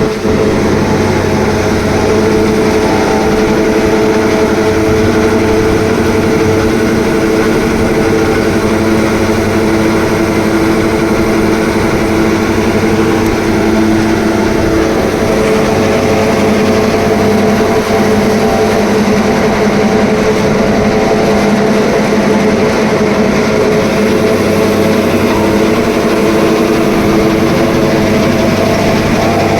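Tractor engine running steadily under load, driving a silage packing machine, with a constant mechanical drone.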